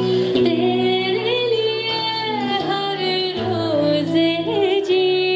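A woman singing a slow, held melodic line with wavering vibrato over a backing accompaniment of sustained low notes.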